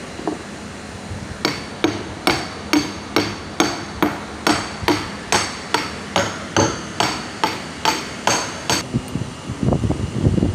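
A hammer striking metal in a steady rhythm, about two ringing blows a second for some seven seconds, during repair work on a screw pump. Near the end the blows stop and a louder, low, irregular clatter follows.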